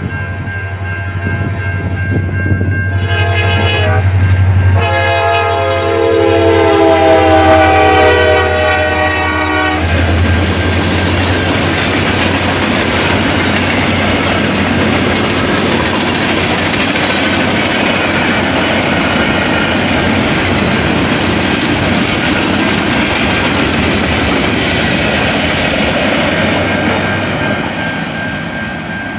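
Freight train passing a road crossing: the locomotive horn sounds about three seconds in, a short blast then a longer one lasting to about ten seconds in. Then the steady rolling noise and clickety-clack of the freight cars going by, easing off near the end as the train clears.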